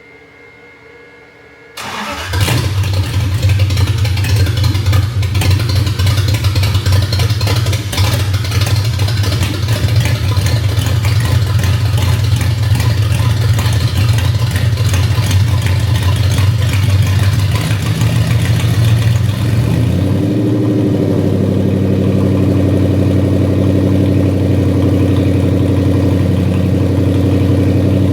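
Car engine starting about two seconds in and running loud and rough, then settling into a steadier idle about twenty seconds in.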